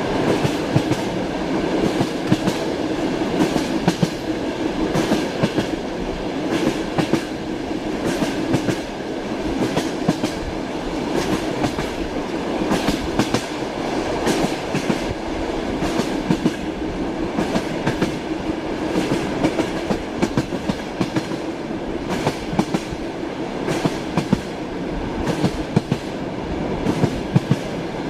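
Passenger train running along the rails: a steady rolling rumble, with the wheels knocking over rail joints again and again in the familiar clickety-clack.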